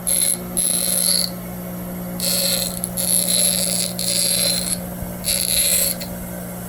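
A small power tool running steadily with repeated bursts of high-pitched cutting or grinding noise, about six, each under a second, as it works through material to make a homemade intake gasket.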